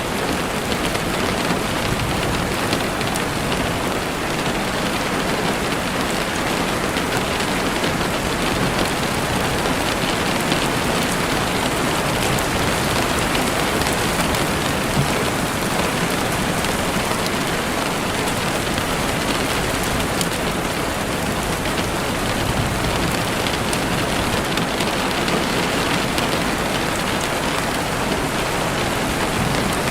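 Heavy rain falling steadily on a window, a dense, even hiss with fine drop ticks, unchanging throughout.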